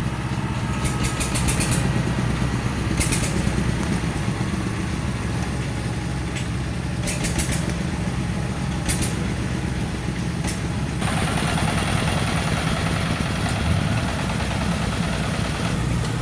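Engine of a rice harvester running steadily, with short bursts of high rattling every second or two; a louder hiss of higher noise joins about eleven seconds in.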